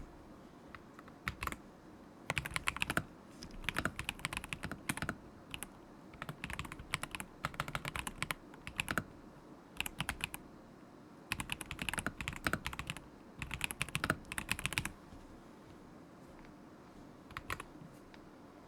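Typing on a stock KZZI K75 Pro mechanical keyboard with Moment linear switches: quick runs of key clacks in bursts of a second or so with short gaps between. The typing stops about three-quarters of the way through, apart from a couple of keystrokes near the end.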